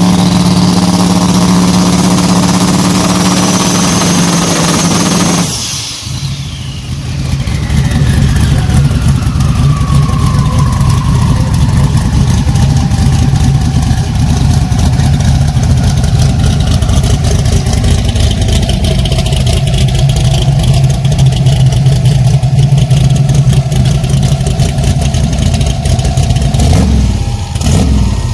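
Drag race car engine held at a steady high rev for about five seconds, then cut back suddenly to a rough, loud idle with a long slowly falling whistle; a brief rev near the end.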